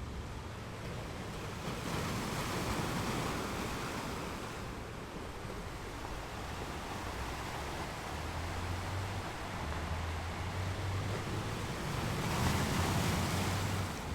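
Strong sea waves breaking on a beach: a continuous rush of surf, with one breaker swelling louder about two seconds in and another near the end.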